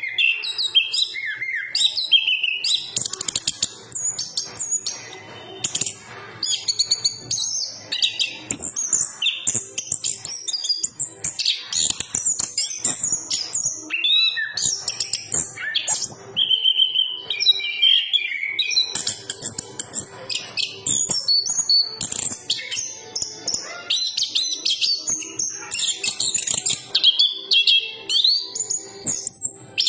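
Chestnut-capped thrush (anis kembang) singing a long, nearly unbroken song of rapid, varied high whistles and trills.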